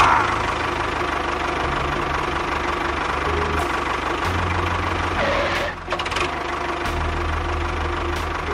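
Small motor of a homemade model tractor running steadily with a whirring drone, with a few short clicks and knocks along the way.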